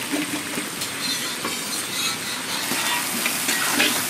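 Sliced onions, capsicum and green chillies sizzling in hot oil in a pan, a steady hiss, with a spatula stirring and scraping now and then.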